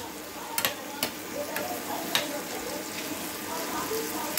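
Raw mango pieces and green chillies sizzling in oil in a steel pan while a metal spoon stirs them, the spoon clinking sharply against the pan about four times in the first two seconds.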